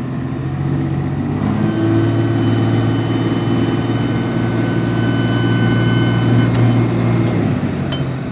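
2003 Dodge Ram 2500's straight-piped 5.9 L Cummins inline-six turbo diesel pulling under throttle. The engine note rises about a second and a half in and holds steady with a high turbo whistle over it, then drops off near the end as the throttle is let off.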